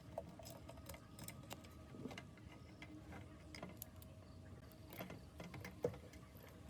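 Faint, irregular light clicks and taps of small metal parts being handled, the sharpest near the end, over a faint steady hum.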